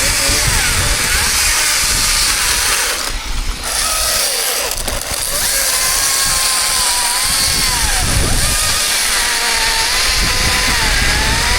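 Chainsaw running, its engine pitch rising and falling as it works, with a brief dip in level about three seconds in.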